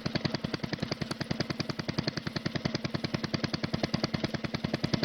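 A machine running with a rapid, even knock of about ten beats a second over a steady low hum.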